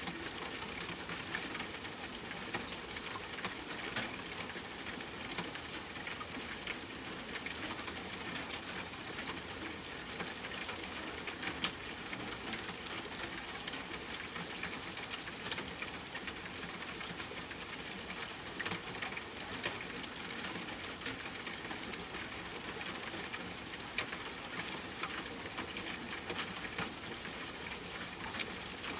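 Steady rain falling, an even hiss with scattered drop clicks.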